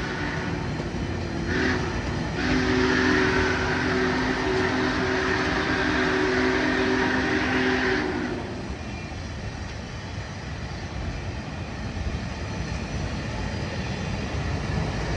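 Big Boy steam locomotive's whistle blowing a long chord. It breaks off briefly about a second and a half in, sounds again for about six seconds and stops, while the rumble of the passing train carries on.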